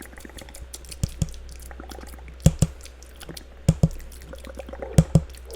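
Layered ASMR cup tapping and wet mouth sounds: sharp taps come in pairs, four times at an even pace about a second and a quarter apart, over a steady patter of small wet clicks.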